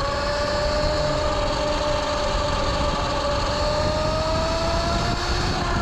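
Sur-Ron electric dirt bike's motor whining steadily under way, its pitch creeping up and easing back a little near the end, over a low rush of wind.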